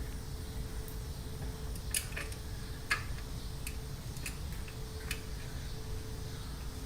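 A few light, irregular metallic clicks and taps of hand tools on the carburetor mounting bolts as the carb is bolted onto the pit bike's engine, over a faint steady hum.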